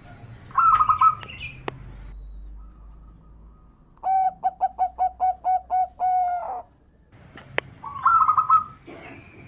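Male zebra dove (perkutut) cooing: starting about four seconds in, a run of about nine quick, evenly spaced coos ending on one longer drawn-out note. Shorter, higher trilled calls come near the start and again near the end, with a couple of sharp clicks.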